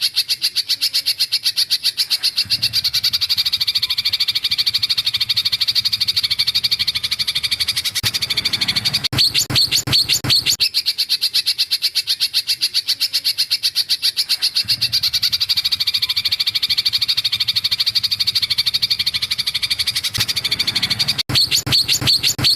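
A songbird's rapid, evenly pulsed chattering trill, repeated without a break as birdsong training material for white-rumped shamas; it stops abruptly at the end.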